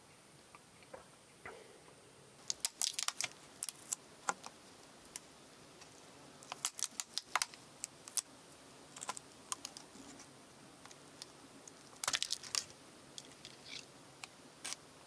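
Irregular sharp clicks and taps, coming in short clusters with single ticks between, over a faint hiss.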